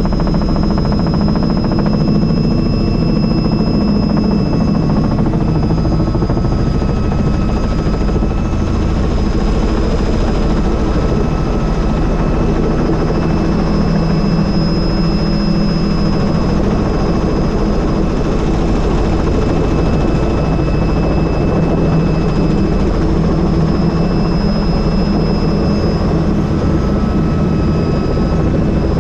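Helicopter in flight heard from on board with the doors off: steady, loud rotor and engine noise with a constant high whine over it.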